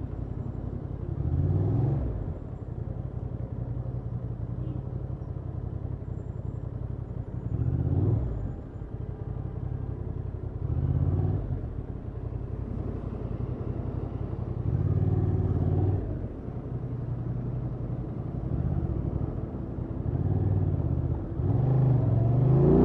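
Honda XL750 Transalp's parallel-twin engine on its stock exhaust running at low revs, with about five short throttle openings where the engine note rises and then drops back.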